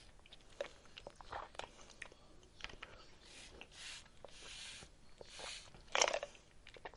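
Faint sipping through a paper straw: small mouth clicks and several short airy sucks, the loudest near the end.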